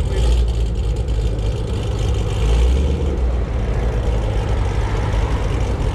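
Car engine idling nearby with a steady deep rumble that swells slightly about two and a half seconds in.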